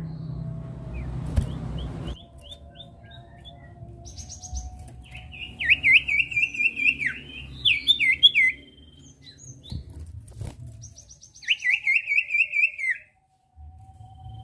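Common iora (cipoh) singing: rapid wavering whistled phrases, in two main bursts about five and eleven seconds in, with a few short notes before and thin high chips above.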